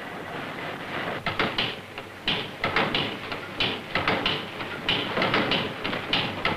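Irregular metallic clanks and knocks of machinery being worked, several a second and uneven, over a steady hiss that slowly grows louder.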